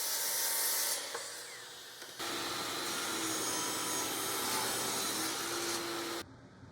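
Woodworking tool cutting maple, a steady hissing noise in two edited clips. The first fades out after about two seconds. The second starts abruptly and cuts off suddenly near the end.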